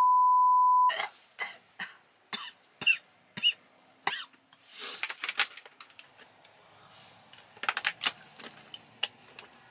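A steady beep tone that cuts off about a second in, followed by a scattered run of short clicks, taps and soft rustling noises close to the microphone, the kind of sounds made for ASMR.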